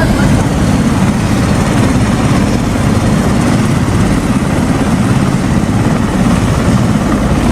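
Helicopter running steadily, its rotor giving a fast, even chop.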